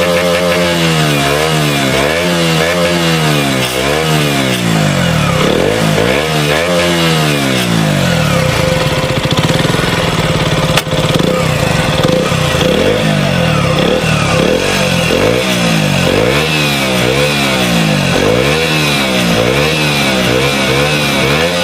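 KTM Duke 125's single-cylinder four-stroke engine, idling briefly and then revved in repeated short throttle blips, its exhaust note rising and falling about once a second. Its sound is very solid, still unchanged after ten months of use.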